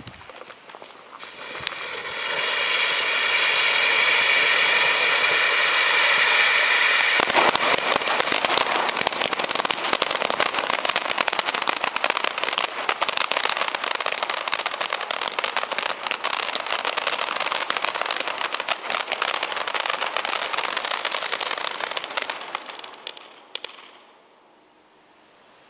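Weco 'Blizzard Wintergewitter' firework burning: a whistling hiss for about five seconds, then dense, fast crackling for about fifteen seconds that dies away near the end.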